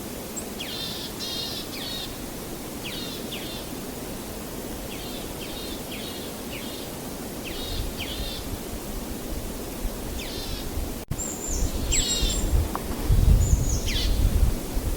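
Songbirds calling in short, repeated trilled phrases over a steady rushing background noise. About eleven seconds in, the sound drops out for an instant, then a deep rumble comes in and grows louder.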